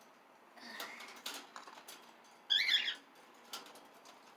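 A pet small parrot (cockatiel or budgie) gives one short, warbling chirp about two and a half seconds in, with a few soft clicks and light rustling around it.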